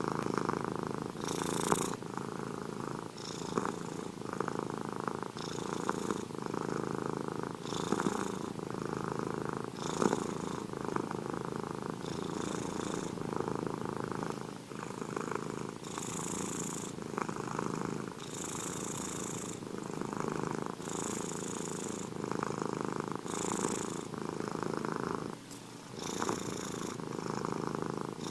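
Domestic cat purring continuously, the purr swelling and easing with each breath about every two and a half seconds.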